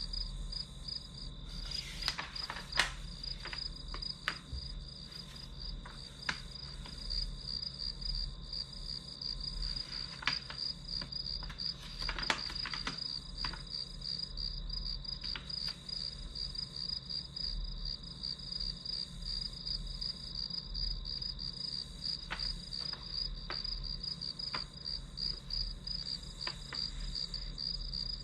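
Crickets chirping in a steady, fast, high-pitched pulsing trill, with a few faint sharp clicks now and then.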